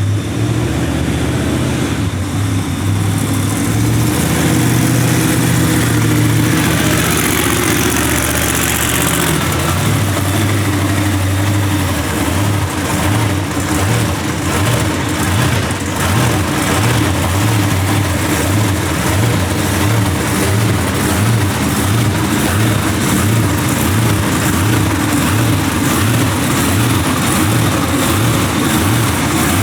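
A large engine running steadily, with a low throb repeating a little over once a second through the second half. A burst of hiss comes about seven seconds in.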